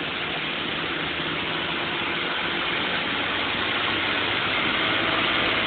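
BMW M52B28 2.8-litre straight-six idling steadily on its first start, heard at the twin tailpipes.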